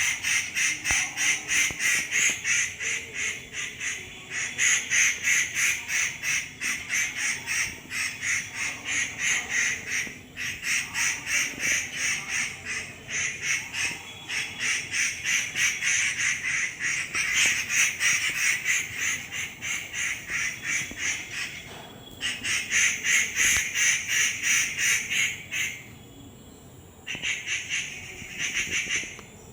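Birds calling in a fast, steady run of repeated notes, several a second, with a few short breaks.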